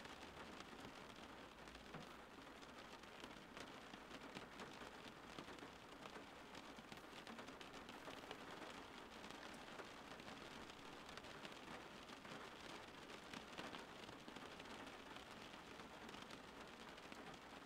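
Rain falling steadily on a car's windshield: a soft, even hiss dotted with many fine drop ticks.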